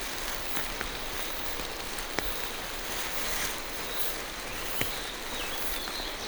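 Steady rain falling through a forest canopy, an even hiss with a few sharp ticks of single drops, clearest about two seconds in and near five seconds.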